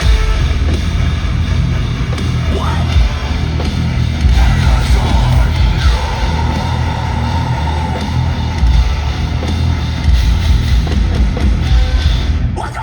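Live metalcore band playing loudly through a concert PA: heavy distorted guitars, bass and pounding drums, with shouted vocals, recorded from the crowd. The full band drops out near the end.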